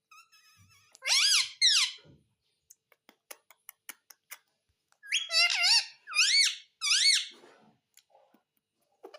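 Green ringneck parakeet giving shrill squawking calls with a quickly wavering pitch: two about a second in, then a run of four from about five seconds. Faint clicks fall in between.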